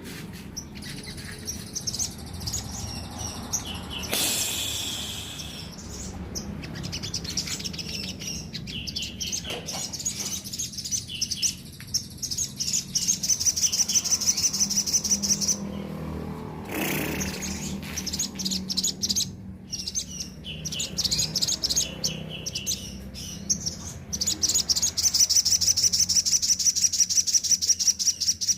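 A sogon (sunbird) singing hard in long runs of fast, high, rapidly repeated chirping notes, at its loudest near the middle and over the last few seconds. A low steady hum runs underneath.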